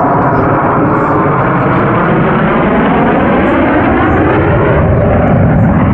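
Loud jet noise of a Blue Angels F/A-18 Super Hornet flying past, with a hollow swooshing sweep in pitch as it passes.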